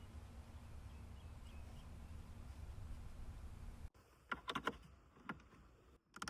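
A steady low rumble, then an abrupt change to several short, sharp clinks and taps, like small hard objects being handled and set down.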